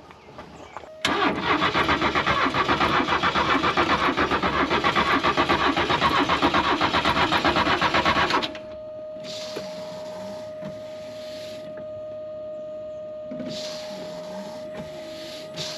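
Car engine cranked over on its starter, a fast rhythmic churning that starts abruptly about a second in and cuts off suddenly after about seven seconds. A steady high tone carries on after the cranking stops.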